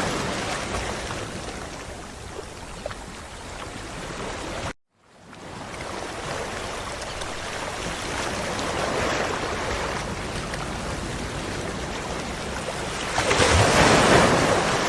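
Ocean waves washing onto a beach: a steady wash with a surge about nine seconds in and a louder breaking wave near the end. The sound cuts out completely for a moment about five seconds in.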